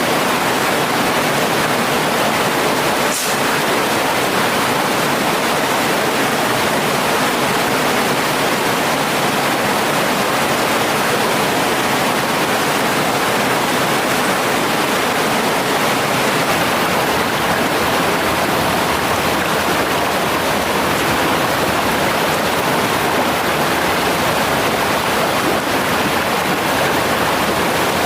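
Mountain stream water rushing steadily, with one short click about three seconds in.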